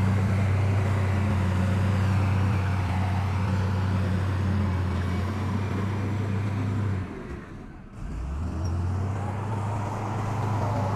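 Heavy diesel engine of earth-moving machinery running steadily with a low drone. It drops away about seven seconds in and picks up again a second later.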